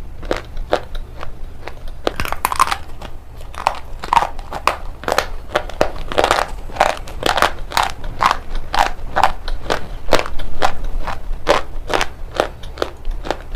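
A person biting and chewing pieces of shale stone up close: a steady run of sharp, gritty crunches at about three a second.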